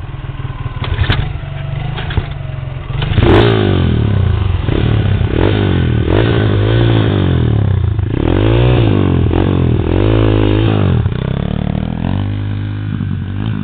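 Small off-road engine running and being revved up and down repeatedly from about three seconds in, with a few knocks early on.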